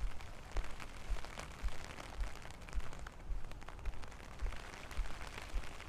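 Rain falling, with a steady patter of individual drops. Low thuds come about twice a second at an even pace, the footsteps of someone walking in the rain.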